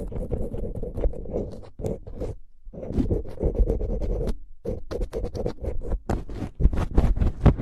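Close-miked scratching and scraping, many quick strokes in a row with a short pause about two and a half seconds in, turning sharper and faster near the end.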